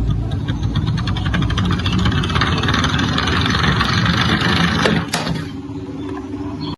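Toy car's engine sound: a rapid, rattling, motor-like buzz that stops with a sharp click about five seconds in.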